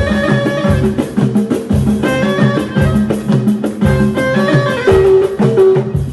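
Amazigh folk music played by a band: plucked string instruments over a steady, rhythmic drum beat.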